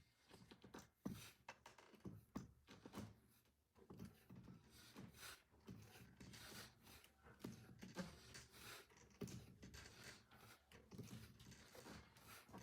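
Near silence in a small room, with faint, irregular soft knocks and rustles.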